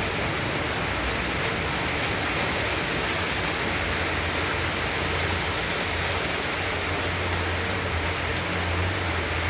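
Heavy tropical downpour, a steady rush of rain with no breaks.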